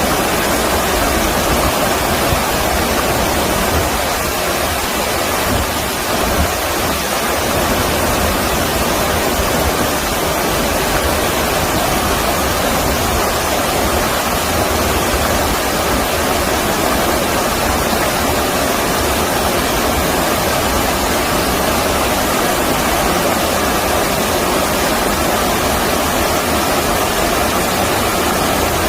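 Flowing stream water rushing steadily, a constant loud wash of noise.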